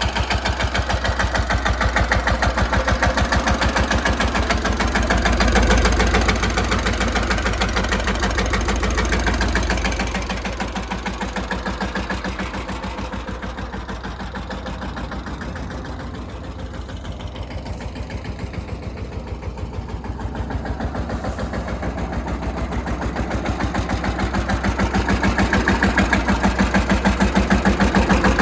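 Mahindra Yuvraj 215 tractor's single-cylinder diesel engine running with a fast, even thudding beat. It grows quieter in the middle and louder again near the end.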